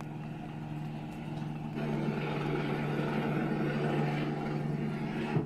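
A steady mechanical hum, like a small motor running, that grows louder with a rushing noise about two seconds in and cuts off suddenly near the end.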